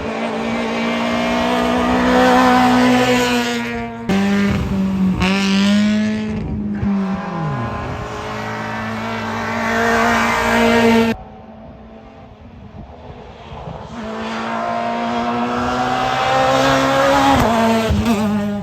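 Hill-climb race cars at full throttle on a mountain road, engines revving high, pitch climbing and then dropping at gear changes and on lifting off. Three passes are heard: the sound cuts sharply about four and eleven seconds in, and after a quieter gap another car builds up loud near the end.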